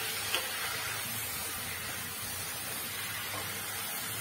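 Chopped tomatoes sizzling in hot coconut oil with onions and spices in a pot, a steady frying hiss, with one sharp click about a third of a second in.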